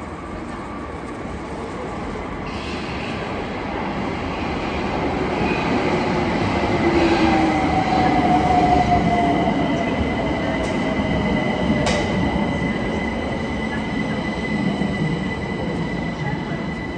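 Class 378 electric multiple unit pulling into the platform, growing louder as it approaches and runs past, with a falling whine as it brakes and a steady high squeal from about halfway on. A single sharp click comes about twelve seconds in.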